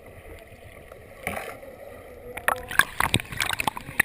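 Water sloshing around a kayak, then, from a little past halfway, a quick run of sharp splashes and slaps.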